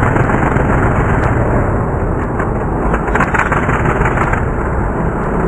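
Monster truck engine running loud and steady, a dense, heavy rumble.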